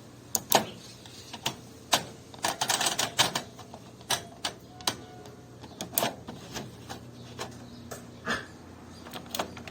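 Irregular sharp clicks and clacks from a Beko washing machine, a quick flurry of them about two and a half seconds in, over a faint steady hum that fades out near the end.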